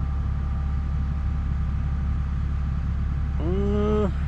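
Cat 313 excavator's diesel engine idling steadily. Near the end there is a short drawn-out vocal sound.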